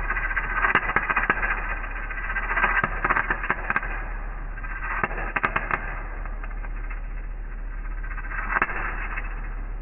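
Welding arc crackling and spitting in short bursts with sharp pops, under a steady electrical hum, as weld is built up on broken-off exhaust manifold studs to draw them out.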